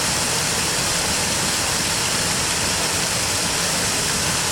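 Steady rushing of river water running over a small waterfall.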